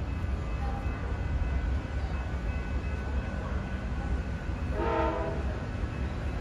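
Amtrak Silver Meteor diesel locomotive running with a steady low rumble as the train arrives, with one short horn blast about five seconds in.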